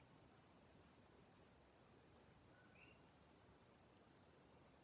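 Crickets singing faintly in one steady, high-pitched trill, with a faint short bird call near the middle.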